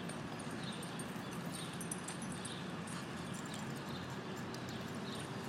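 Steady outdoor background hiss with faint short high chirps repeating about once a second.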